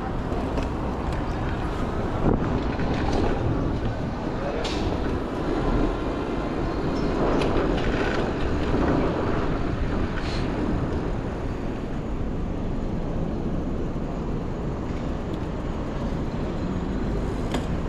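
City street traffic heard from a moving bicycle: a steady rumble of vehicles that swells around the middle, with a few short sharp clicks.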